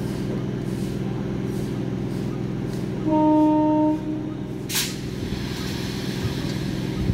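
Electric multiple-unit local train moving slowly at a platform, its electrical equipment humming steadily. About three seconds in, its horn sounds one steady note for about a second, followed shortly by a brief sharp hiss of air.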